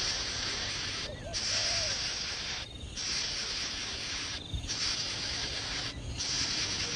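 Baby bird hissing in long, repeated bouts of about a second and a half, each broken by a short pause. A few faint short calls are heard between them.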